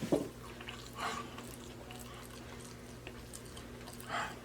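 Chewing and mouth sounds of someone eating, with a few short wet smacks, over a low steady hum.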